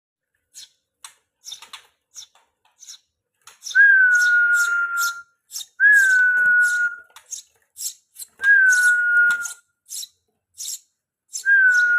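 Eurasian tree sparrow nestlings making rapid, very high begging chirps while being hand-fed. A person whistles a long, steady note four times, about two to three seconds apart, each note starting with a slight lift in pitch.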